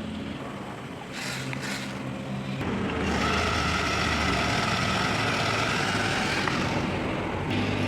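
Electric motor and gearbox of a remote-control toy tractor running with a steady whine; the sound shifts and grows louder about three seconds in.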